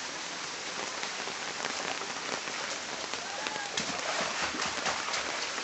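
Steady rain falling and pattering on surfaces, an even hiss with many small drop splashes.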